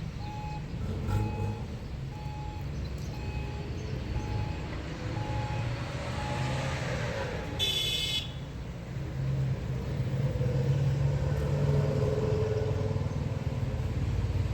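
Car engine running on the road, getting louder after about nine seconds. A short electronic beep repeats about once a second for the first six seconds, and a horn gives one short toot about eight seconds in.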